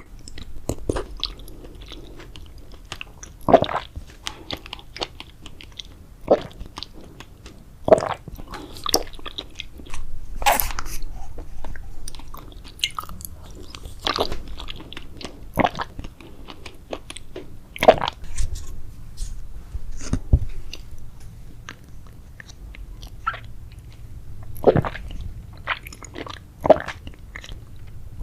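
Grape jelly dessert being bitten and chewed close to the microphone: irregular sharp wet clicks and smacks, with a louder one every second or two.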